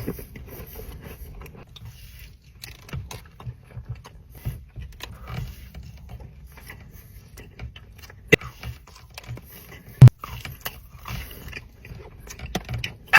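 Close-miked eating sounds: chewing with irregular small crunches and clicks, and one sharp, loud click about ten seconds in.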